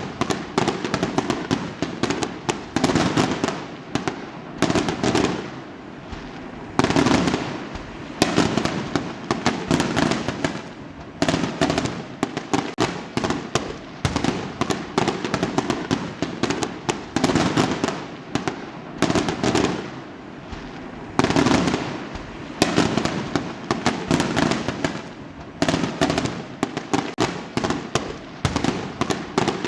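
Fireworks going off continuously: a dense rapid crackle of pops, with louder volleys of bangs every second or few.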